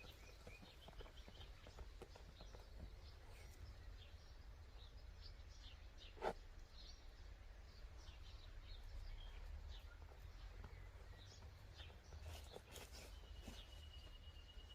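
Faint outdoor ambience with small birds chirping over a low rumble, and a single sharp click about six seconds in.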